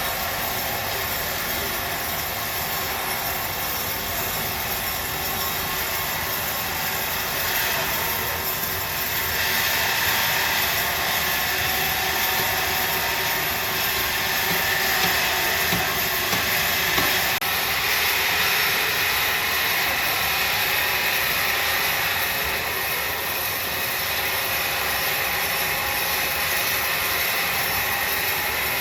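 Large sawmill saw running steadily, with a brighter hissing cutting noise that sets in about ten seconds in, as the blade works through a log.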